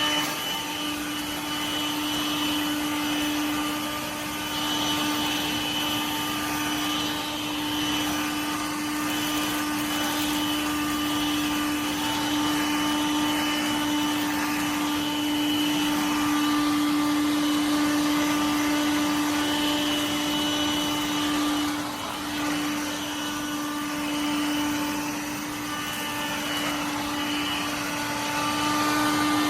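Stick vacuum cleaner running steadily, its motor giving an even, continuous hum with a brief dip about two-thirds of the way through.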